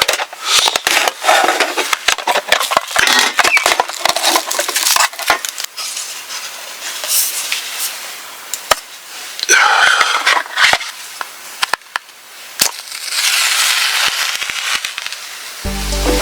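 A run of irregular sharp cracks, snaps and crunches over a rustling hiss. Music comes in near the end.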